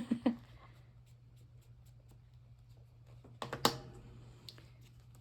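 A short cluster of light clicks and rustling from craft materials being handled on a desk, about three and a half seconds in, with a few faint ticks around it over a low steady hum.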